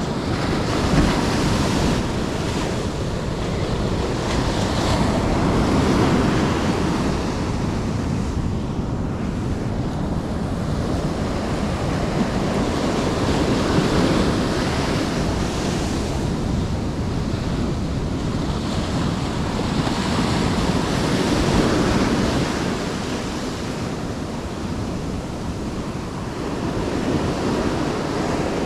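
Surf breaking and washing on the shore, swelling and easing every several seconds, with wind buffeting the microphone.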